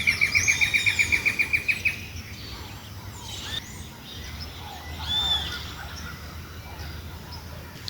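Wild birds calling: a loud rapid series of sharp notes, about eight a second, for the first two seconds. Then come scattered short chirps and a rising-and-falling whistle about five seconds in, over a steady low rumble.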